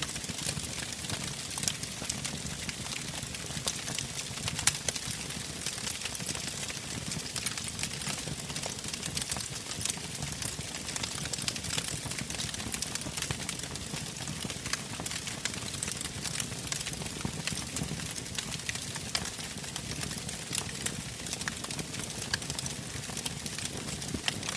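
Campfire burning: a steady hiss with frequent sharp crackles and pops of the burning wood, one louder pop about five seconds in.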